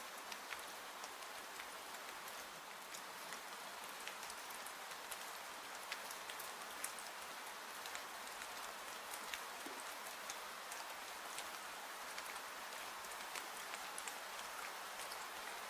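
Steady rain hiss with scattered sharp ticks of individual drops landing.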